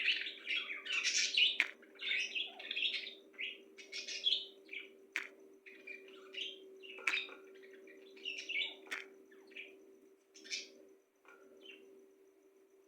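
Birds chirping in quick, short calls, busy at first and thinning out toward the end, with a few sharp clicks and a faint steady hum underneath.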